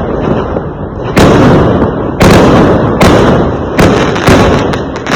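Fireworks exploding: five sharp bangs about a second apart, each followed by a fading rumble.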